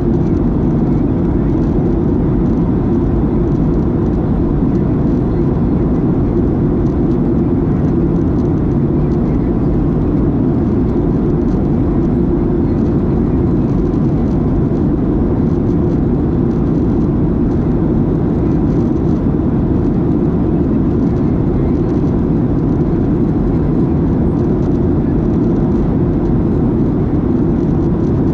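Steady in-flight cabin noise of a Boeing 737-700: a loud, even rush of CFM56-7B engines and airflow heard from inside the cabin, with a faint steady whine.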